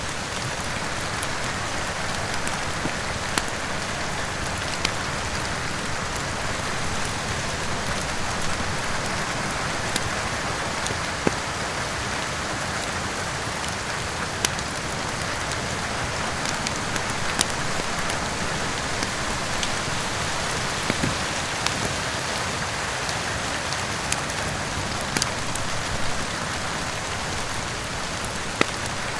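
Steady heavy rain, with the sharp irregular pops of a crackling wood fire scattered through it.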